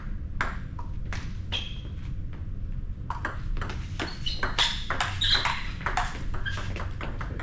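Table tennis rally: the ball clicks sharply off bats and table, a few hits at first, then a quick run of clicks from about three seconds in.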